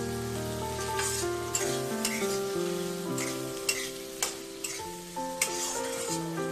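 Chopped onion and tomato sizzling in hot oil in a kadai, stirred with a spatula that scrapes the pan again and again, over background music.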